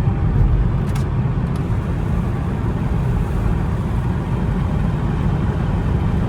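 Steady low road and engine rumble inside the cabin of an Infiniti car being driven, with a couple of faint clicks near the start.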